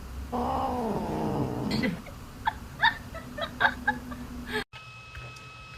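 A domestic cat giving one long, drawn-out meow that falls in pitch, followed by several short, sharp sounds; the sound cuts off suddenly near the end.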